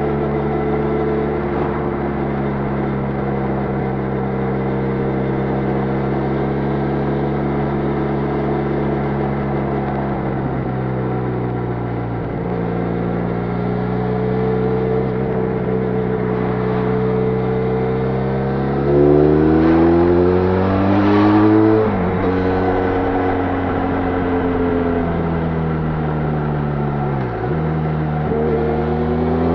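Benelli Leoncino 500's parallel-twin engine running through its stock exhaust while the bike is ridden. The engine note holds steady at first and eases off a little. About two-thirds of the way in it climbs sharply under acceleration and drops suddenly at a gear change. It dips again and starts rising near the end.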